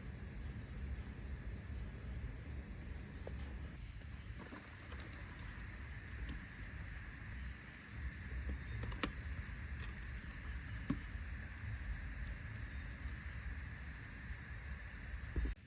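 Steady chorus of insects chirring, with a low rumble underneath and a few sharp clicks; it cuts off abruptly near the end.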